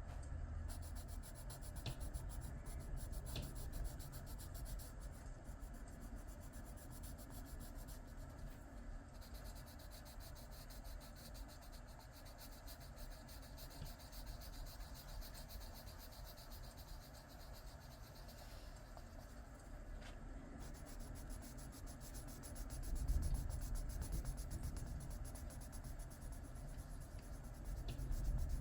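Coloured pencil scratching steadily across paper in quick back-and-forth strokes while filling in a shape.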